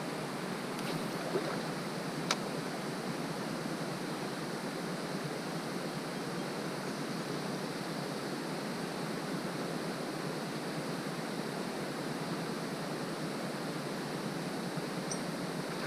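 Steady rush of flowing river water over rocks. There is a single sharp click about two seconds in.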